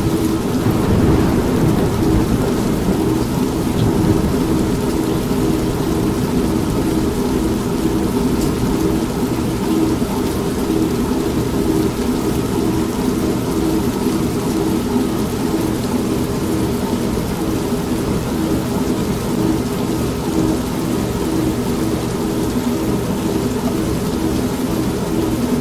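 Old washing machine running with a steady, rhythmically pulsing drone, mixed with steady rain and a roll of thunder in the first few seconds.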